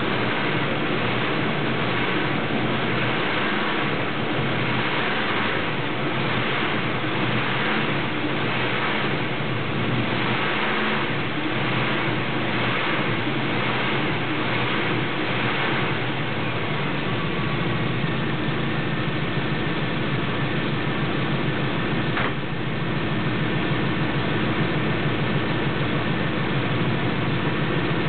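1976 Oldsmobile Ninety-Eight's 455 cubic-inch V8 running steadily after a cold start. About two-thirds of the way through, a deeper low rumble and a faint steady whine come in, and a single sharp click follows a few seconds later.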